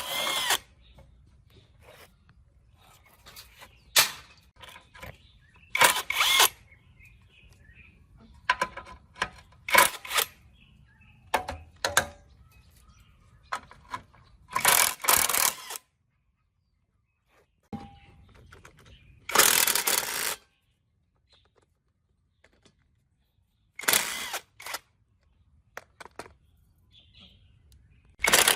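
Hand tools and metal engine parts being worked: irregular clicks and clinks, some ringing briefly, and short scraping or hissing bursts, with a few abrupt dead-silent gaps.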